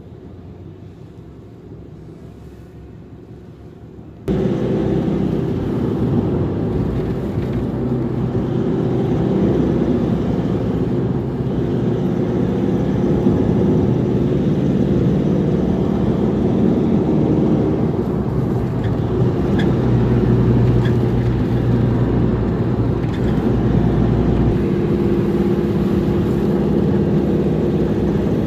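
Steady motor-vehicle drone: a low engine rumble with a few held tones. It starts abruptly about four seconds in, after fainter low noise.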